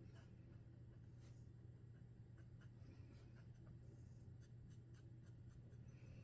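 Sharpie Creative Markers drawing on paper: faint strokes of the tip across the page with small ticks as it touches down and lifts, several in quick succession in the second half, over a steady low hum.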